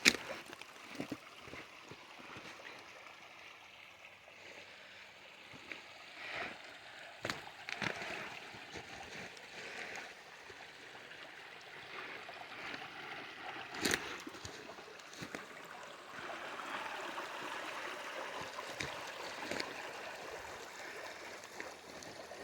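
Shallow water flowing and trickling into a pond inlet, a steady stream sound that grows a little louder about two-thirds of the way through, with a couple of sharp knocks.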